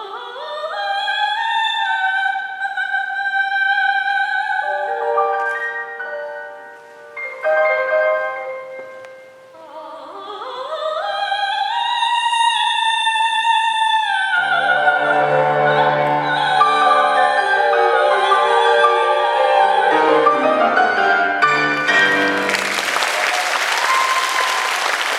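Solo soprano in an operatic style, with piano, singing the final phrases of a Chinese art song. The voice twice glides upward to a long held high note. The piano plays full closing chords with a falling bass run, and applause breaks out about three seconds before the end.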